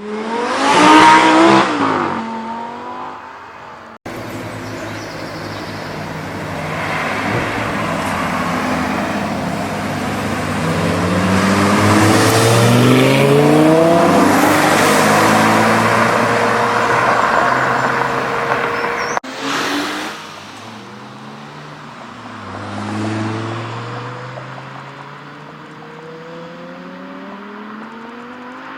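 Audi R8 GT's V10 engine accelerating hard, its pitch climbing again and again through the gears, loudest about a second in and during a long pull in the middle. The sound breaks off abruptly twice where separate passes are cut together.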